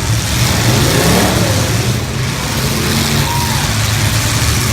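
Demolition derby full-size stock cars' engines running loudly, with one engine revving up and back down about a second in.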